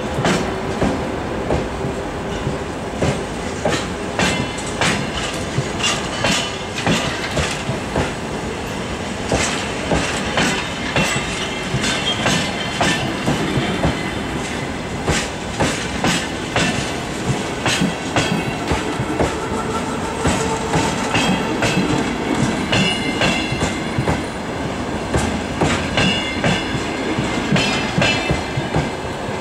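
Passenger train coaches rolling past as the train pulls out, their wheels clicking in a regular clickety-clack over the rail joints above a steady rumble.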